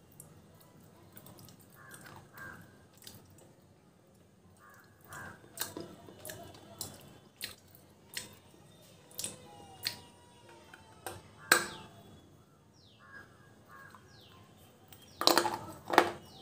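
A person biting and chewing a hard piece of red slate, making sharp crisp crunches and clicks. They come sparsely at first, then more often, with a rapid cluster of the loudest crunches near the end.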